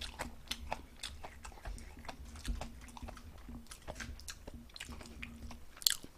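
Close-miked chewing and biting of food: many small wet clicks and crunches from the mouth. Just before the end comes a sharper, louder click as a piece of soy-garlic chicken is bitten.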